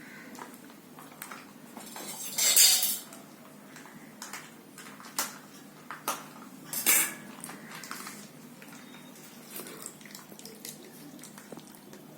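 A spoon clinking and scraping against a bowl in scattered short strokes while curd is spooned onto chicken, with two louder scrapes about two and a half and seven seconds in.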